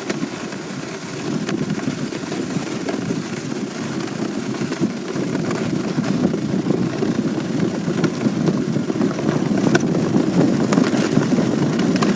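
Sled sliding down a snow-covered hill, a steady rough scraping rumble of the sled on the snow that grows slowly louder as it picks up speed, with a few faint clicks.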